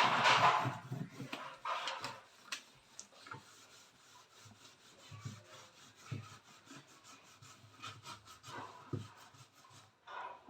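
Scrubbing and rubbing inside a refrigerator while cleaning off grime: a loud scraping burst at the start, then irregular quieter rubs with small knocks.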